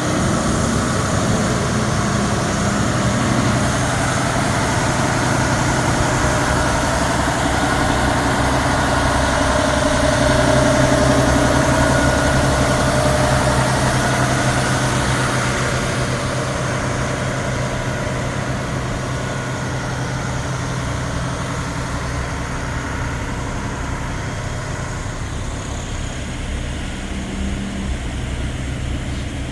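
Fire engine's diesel engine idling steadily, a little louder around the middle and easing off somewhat in the second half.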